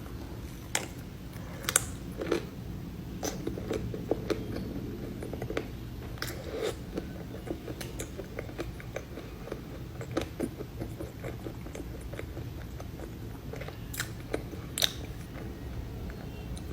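Close-up eating sounds from a pastry: chewing, with scattered sharp crunches and mouth clicks at irregular intervals, louder ones about a second in, near two seconds and near fifteen seconds.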